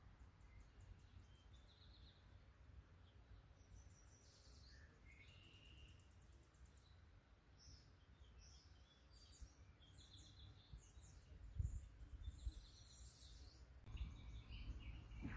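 Faint songbirds chirping and trilling in the background over a low steady rumble, with a soft low bump about eleven and a half seconds in and another near the end.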